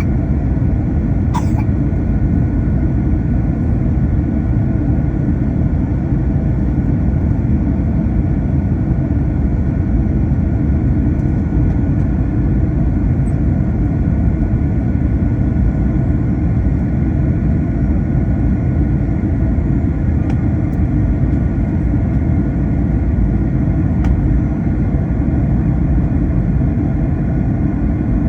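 Steady low rumble of cabin noise inside an Airbus A321 airliner, engine and airflow noise with faint steady whining tones above it.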